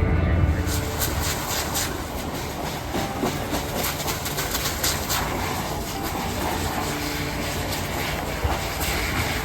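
Water from a fire hose spraying onto burning bushes, a steady rushing hiss broken by irregular crackles and snaps.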